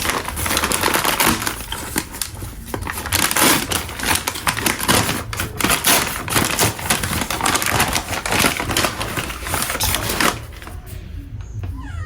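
Cheddar cheese being grated on a metal grater: rapid, irregular scraping strokes that stop about ten seconds in.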